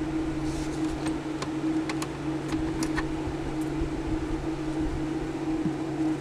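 A steady, low machine hum, with a few faint light clicks in the first few seconds.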